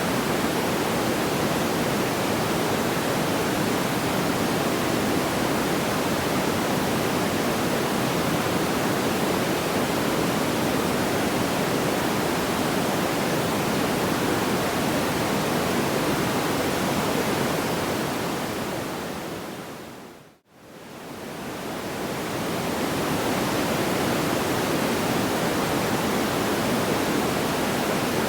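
Steady, even rushing noise like pink noise, with no distinct crackles or pops. It fades down to silence about twenty seconds in and straight back up, the seam of a looped sleep-sound track.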